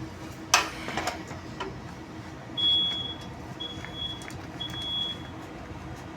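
A sharp metallic clack about half a second in, with a few lighter clicks, as the cover of the radar's magnetron housing is worked open; then three high electronic beeps, each under a second long, about a second apart.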